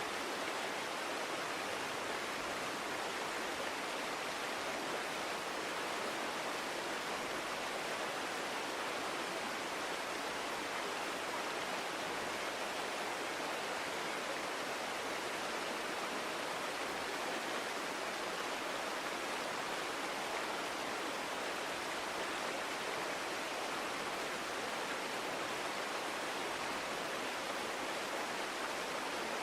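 A forest stream flowing steadily, an even rushing of water that does not change.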